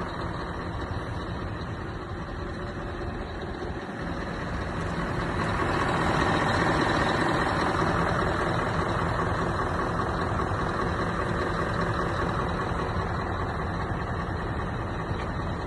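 Scania R620 truck's V8 diesel engine running at idle, growing louder from about four seconds in and easing off slightly after.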